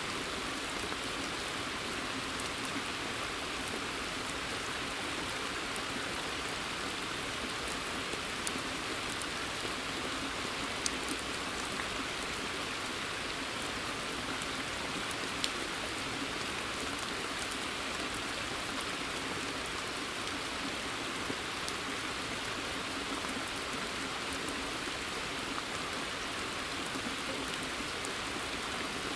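Steady rain falling on a forest pond: an even, dense hiss of drops, with a few single louder drop ticks standing out now and then.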